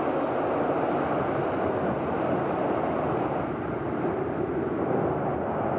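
Jet airliner engines heard as a steady, even rushing noise with no clear whine.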